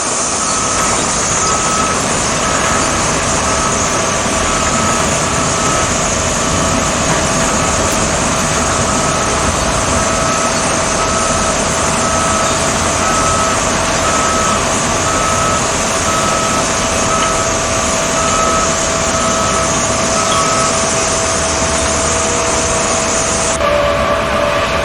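37 kW diamond wire saw cutting reinforced concrete: steady machine noise with a constant whine. A beep repeats about once a second and stops near the end.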